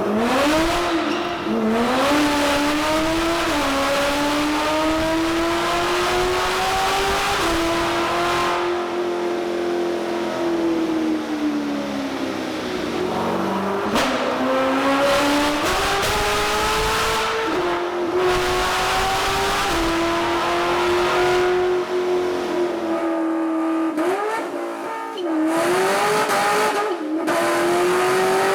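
Modified Corvette C6 Z06 LS7 V8 with a Katech K501 performance camshaft running through its stock mufflers at idle, its pitch wavering rather than holding perfectly steady, with a few short rises in revs.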